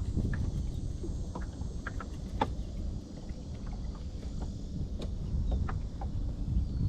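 Low, steady rumble of wind buffeting the microphone on a small fishing boat, with scattered light clicks and knocks.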